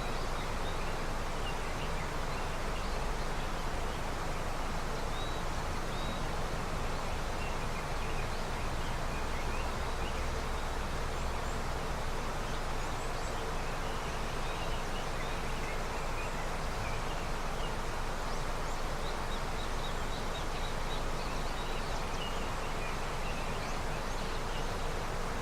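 Snowmelt river flowing steadily, with faint short bird chirps scattered through it.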